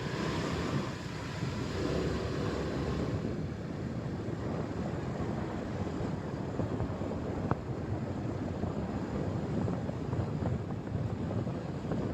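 Wind rushing over the microphone of a moving motorcycle, with the road and engine noise of the ride underneath.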